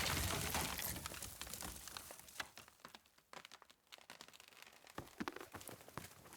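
Sound effects from an animated soundtrack: a loud hissing rush that fades away over about two seconds, then sparse crackles and clicks.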